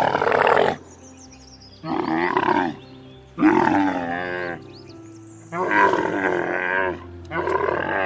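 Dromedary camel calling in a series of loud, rough groaning calls, each about a second long with short pauses between them.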